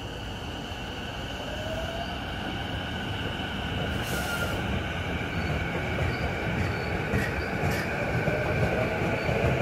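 JR Saikyō Line electric commuter train running at the station, its motor whine rising in pitch about two seconds in and again near the end while the running noise grows louder, as a train gets under way.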